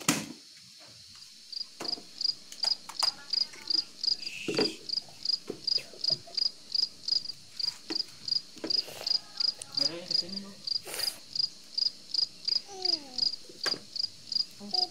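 An insect chirping steadily: short high-pitched pulses at one unchanging pitch, about three a second, starting about two seconds in. A sharp knock sounds at the very start.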